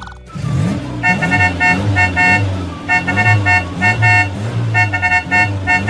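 Cartoon car horns beeping in quick repeated groups of short two-tone honks, over a low pulsing rumble.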